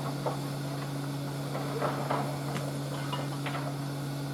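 A steady low mechanical hum, even in pitch, with a few light knocks and clicks scattered over it.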